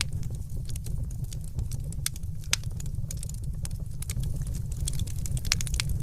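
Wood fire crackling in a fireplace: many quick, irregular sharp pops and snaps over a steady low rumble.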